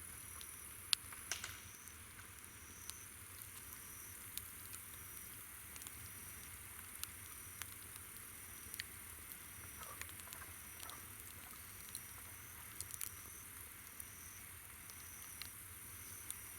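Campfire crackling with scattered sharp pops, the loudest about a second in, over insects calling: a steady high trill and a short chirp repeating about once a second.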